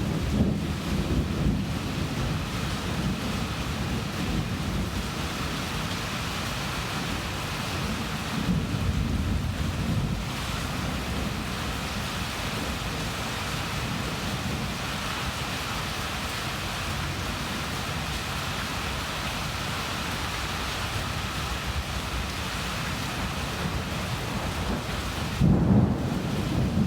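Thunderstorm: steady rain with low rolls of thunder that swell near the start, again about nine seconds in, and near the end.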